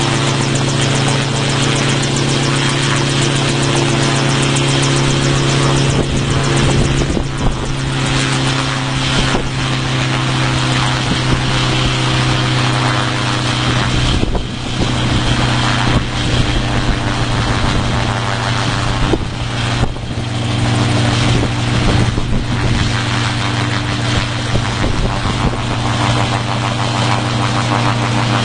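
Homemade helicopter's engine and rotor running steadily at a constant pitch, turning rougher and noisier for a stretch in the middle with a couple of brief dips before settling back to the steady note.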